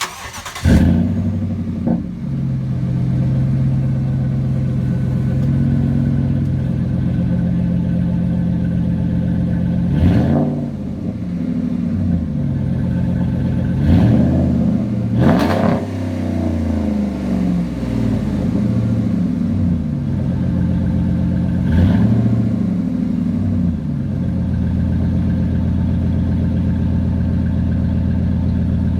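2011 Ram 1500's 4.7-litre V8 through a Flowmaster Super 40 dual exhaust, starting just under a second in and settling into a steady idle. The throttle is blipped four times, about ten seconds in, twice in quick succession around fourteen and fifteen seconds, and once more about twenty-two seconds in, each a quick rise and fall in pitch before it drops back to idle.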